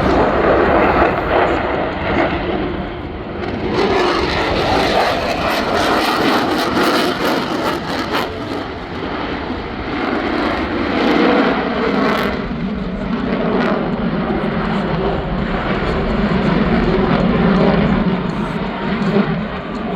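Airplane engine noise overhead, loud and continuous, swelling and easing.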